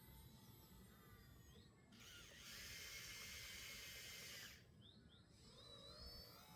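A small electric motor on a radio-controlled model whirs at a steady high pitch for about two and a half seconds, starting and stopping abruptly, over faint low rumble.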